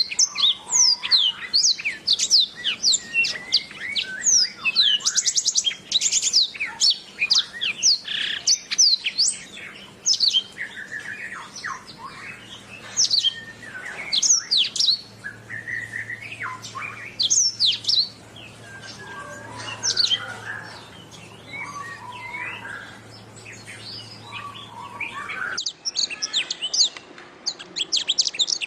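Domestic canary singing a long, rapid song of chirps, trills and quick sweeping whistles, with a few brief quieter gaps. A faint low hum sits underneath from about the middle until shortly before the end.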